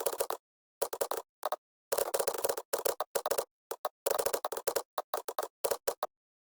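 Computer keyboard typing in rapid bursts of key clicks with short pauses between, stopping about six seconds in.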